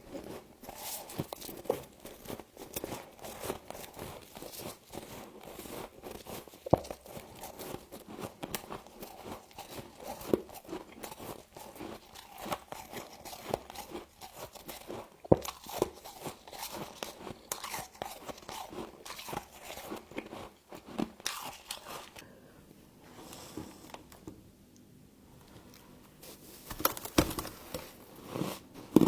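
Frost being bitten and chewed close to the microphone: a dense run of irregular crunches. A quieter pause comes about three quarters of the way through, then louder, sharper bites near the end.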